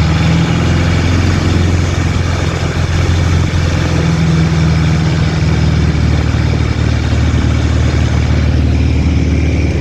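Inboard engine of a vỏ lãi speedboat running steadily at cruising speed, a constant low drone.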